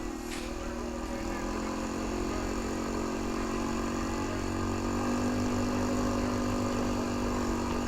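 Jaeger 200 quad bike's engine idling steadily, its level rising slightly.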